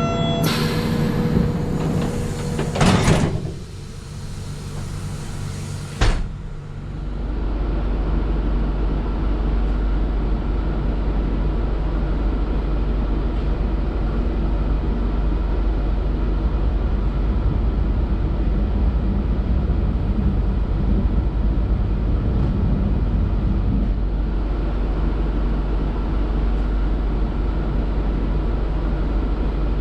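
A sliding train door opening and shutting with a bang about six seconds in, then the steady low rumble of the train.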